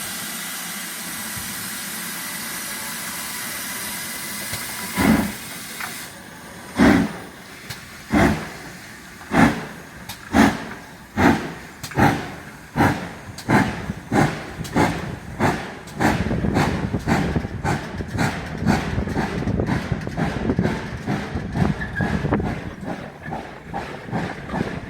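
Steam locomotive pulling away: a steady hiss of steam, then exhaust chuffs begin about five seconds in, slow at first and quickening steadily until they run together into a continuous rumble in the last third.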